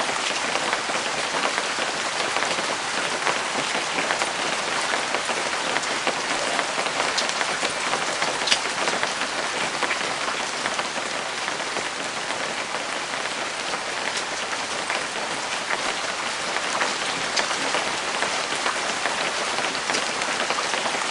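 Steady rain falling, a dense even patter with scattered sharper drop ticks and one louder tap about eight and a half seconds in.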